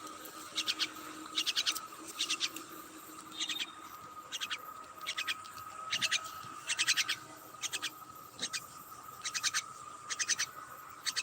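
Myna calling in short bursts of rapid, high, clicking notes, about one burst a second, over a faint steady high whine.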